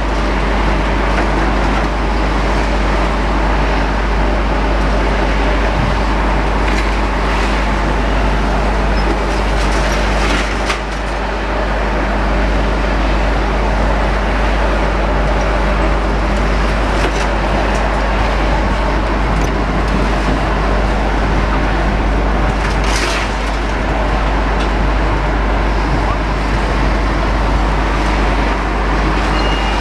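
Steady din of engines and road traffic, with two brief louder noises, about a third of the way in and again about three quarters through.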